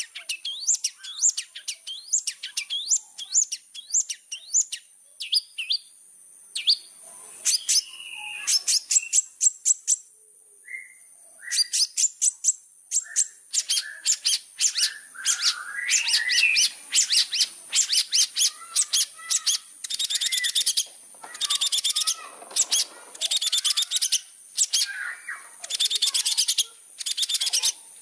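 Long-tailed shrike (cendet) singing a rapid, varied chattering song of sharp high chirps and trills. The song is sparser at first, breaks off briefly, then runs on in dense fast bursts. A steady high tone sounds behind it.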